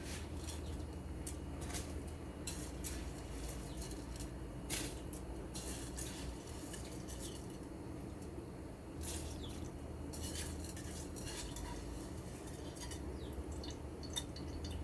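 A metal spoon or utensil clinking and knocking against a cooking pot while the pot is being stirred, in light, irregular strikes. A steady low hum runs underneath.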